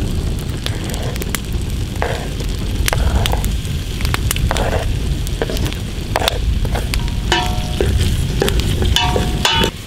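Chicken feet frying in hot oil in a pot, sizzling and crackling, over a steady low rumble, with a few short squeaky scrapes near the end.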